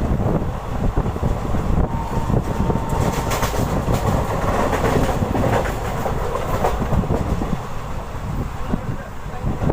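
Deccan Queen express train running, heard from aboard a coach: steady wheel-on-rail rumble with rapid clatter, growing louder and brighter for a few seconds in the middle.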